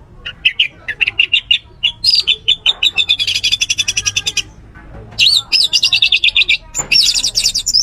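Orange-headed thrush singing: fast runs of sharp, high, repeated notes, in two long bursts with a short pause a little past halfway.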